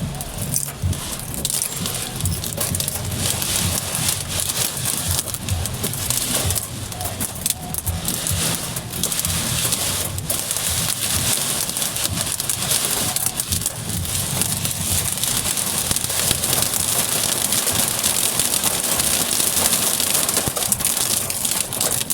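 Heavy rain hitting a moving car's roof and windscreen in a dense crackling patter, over the steady low hum of the car. The rain grows heavier in the second half.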